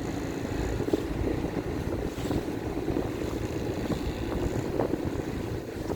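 Small hire motor boat's engine running steadily under way, with wind buffeting the microphone.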